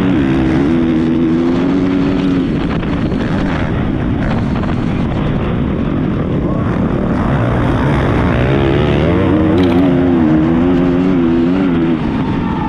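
Racing motocross bike heard from an onboard camera: the engine revving up and down hard as the rider works the throttle, over heavy wind and track noise. The revs rise and fall unevenly near the start and again from about eight seconds in.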